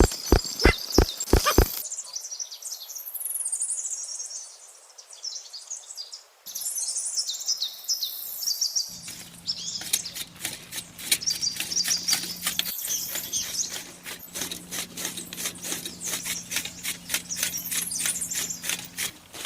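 Birds chirping and singing, with a few sharp clicks in the first two seconds. From about halfway through, a steady low hum with rapid regular ticking joins them, like a small motor running.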